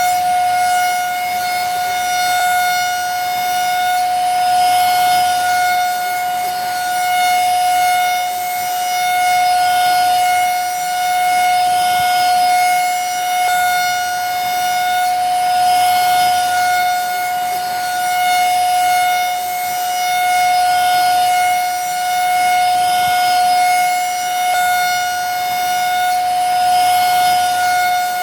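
Vacuum cleaner running continuously: a steady, high motor whine over a rush of air, its loudness swelling and easing gently about every two seconds.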